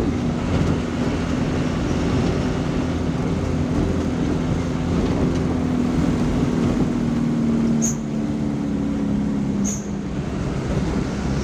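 Road vehicle running, with a steady engine hum that sinks slightly in pitch and road noise. Two brief high chirps come near the end.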